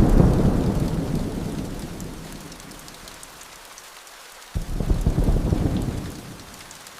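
Steady rain with two rolls of thunder: a loud low rumble at the start that dies away over a few seconds, and a second one about four and a half seconds in.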